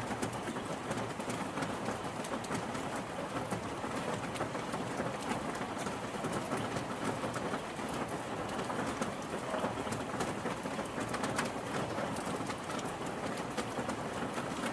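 Steady rain falling on surfaces, a continuous hiss dotted with many individual drop ticks.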